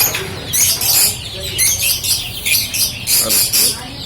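Small birds chirping: repeated short bursts of high twittering, one every half second to a second.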